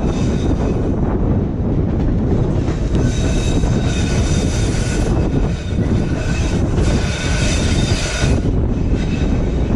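White Pass & Yukon Route passenger train running on the track with a steady rumble, and a high wheel squeal of several tones at once from about three seconds in until about eight seconds in.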